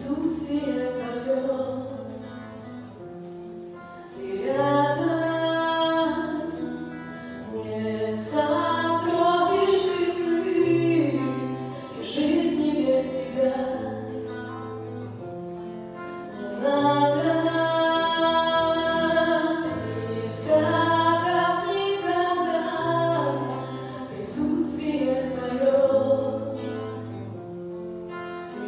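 Voices singing a church hymn with instrumental accompaniment, over a low bass note that changes about once a second.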